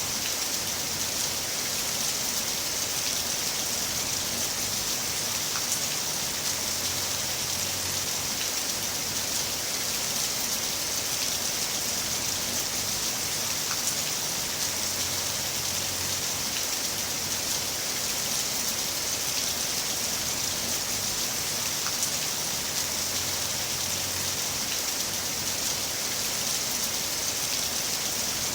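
Heavy rain falling steadily, an even hiss of rain with the odd louder drop tick.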